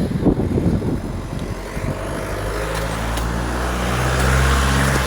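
A motor vehicle engine running with a steady low hum that grows louder toward the end, as if drawing closer.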